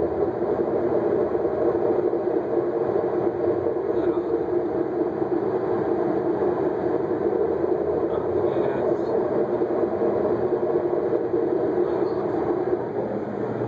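A 2006 Jeep Grand Cherokee making a steady, even drone that does not change in pitch or level. This is the unexplained noise the owner is recording.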